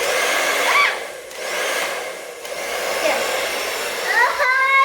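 Infiniti hand-held hair dryer running on its cool setting: a steady rushing of fan and airflow, dipping briefly a little after a second in.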